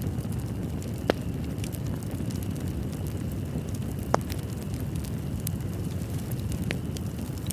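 Wood fire burning in a fireplace: a steady low rumble with scattered crackles, and two sharp pops, about a second in and about four seconds in.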